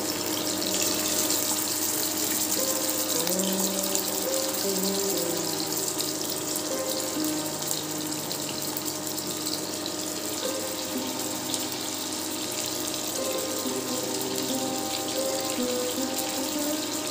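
Prawns frying in hot mustard oil in a kadhai: a steady sizzling hiss with fine crackling, over soft melodic background music.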